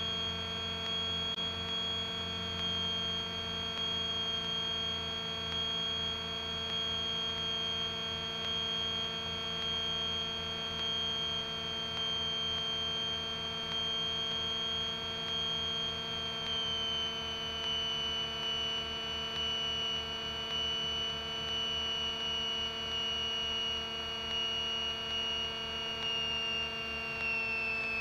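Twin-engine Grumman GA-7 Cougar's engines and propellers droning steadily in the cockpit, with a slow pulsing beat in the low drone. A high whine steps down in pitch over the last dozen seconds as power is brought back for the landing.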